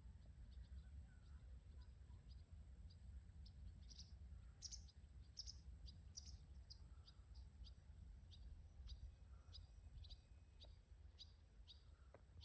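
Faint, repeated short bird chirps, two or three a second and a little louder in the middle, over a low steady rumble and a constant high-pitched hiss.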